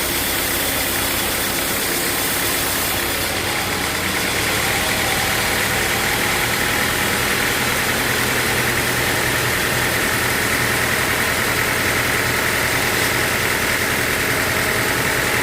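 Sawmill machinery running steadily with an engine-like drone. About four seconds in, a higher, brighter noise sets in and holds, and it gets a little louder.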